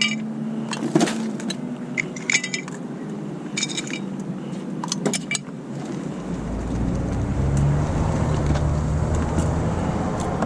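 Several light clinks and rattles of litter, a can among it, being picked up and dropped in. About six seconds in, a vehicle's engine rumble comes up close and stays loud.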